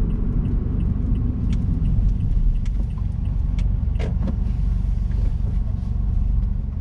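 Honda S660's 658 cc turbocharged three-cylinder engine and tyres giving a steady low rumble while driving, with a few light clicks and knocks.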